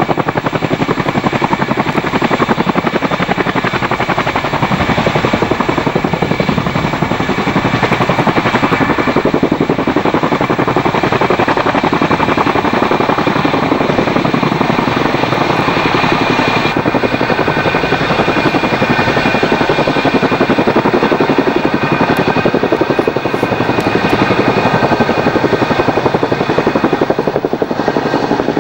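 CH-47 Chinook tandem-rotor helicopter running close by: its rotors beat rapidly over the steady whine of its twin turboshaft engines. About two-thirds of the way through, the whine becomes more prominent.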